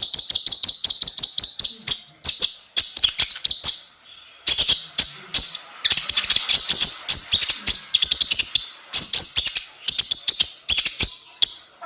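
Konin (kolibri ninja) sunbird singing: a loud, rapid chattering of sharp, high-pitched chirps and trills in fast runs, with a brief break about four seconds in.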